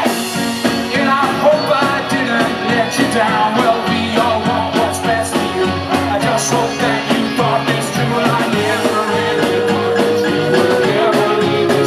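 Rock band playing live, with drums, electric guitars and bass and a voice singing over them; a long note is held from about two-thirds of the way in.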